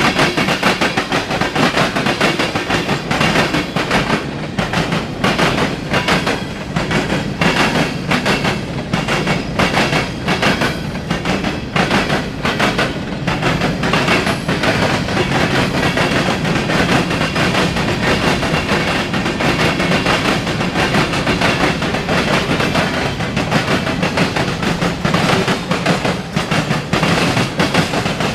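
Freight train cars rolling past, their steel wheels clicking steadily over the rail joints with a continuous rumble and rattle.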